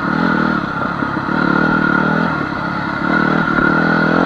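Honda CR250 two-stroke dirt bike engine running while stopped, its revs rising and falling several times.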